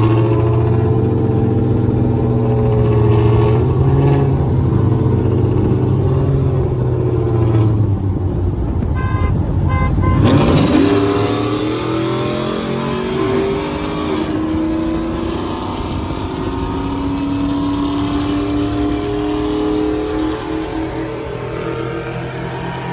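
Car engine running steadily, then revving about ten seconds in, its pitch sweeping up and down before it settles.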